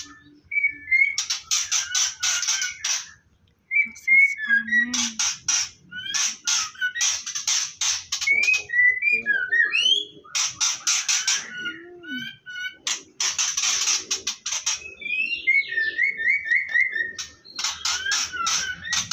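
White-rumped shamas calling: about six bursts of harsh rasping chatter, each a second or two long, alternating with short whistled and gliding notes.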